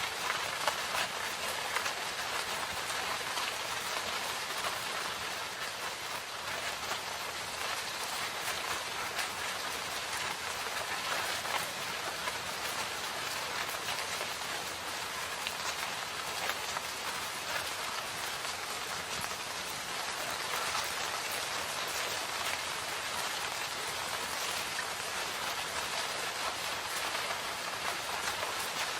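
Steady rain falling in a forest, an even hiss of drops on leaves and ground with many faint drop ticks.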